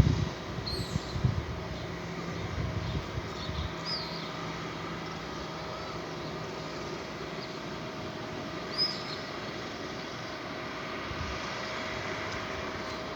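Steady outdoor background noise with a low rumble and a faint steady hum, a few low knocks in the first second or so, and several brief high chirps, likely small birds.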